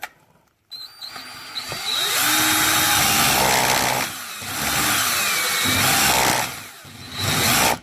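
Power drill spinning a pen barrel trimmer as it cuts the end of a pen blank down to its brass tube, speeding up and easing off with a gliding whine, then stopping abruptly near the end.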